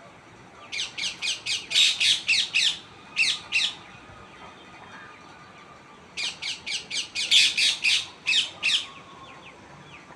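Parrot squawking in two bursts of rapid, repeated harsh calls, about four a second, each burst lasting about three seconds.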